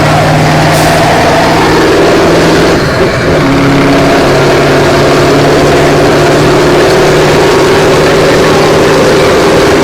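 Heavy truck diesel engine running steadily and loud, with a brief dip about three seconds in, after which it carries on at a slightly changed pitch.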